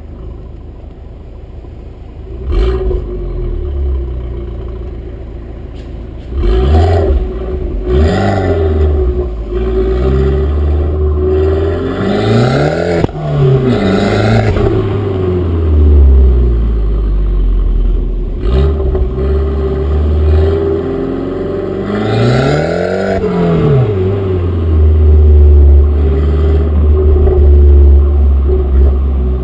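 Abarth Grande Punto's turbocharged four-cylinder engine, its catalytic converter removed, running with a low exhaust rumble and revved several times, each rev rising and falling back to idle.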